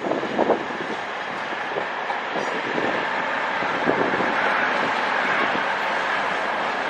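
Train moving through the station: a steady running noise with a faint high whine, and a few short knocks in the first second.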